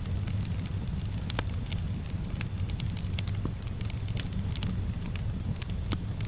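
Campfire burning with a steady low rumble and scattered sharp crackles and pops of wood.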